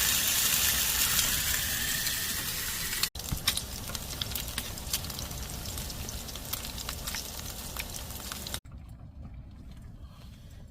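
Pork belly sizzling on a grill pan, a steady hiss with many sharp crackles of spitting fat. It is heard in three spliced clips: loudest for the first three seconds, crackliest in the middle, and quieter near the end.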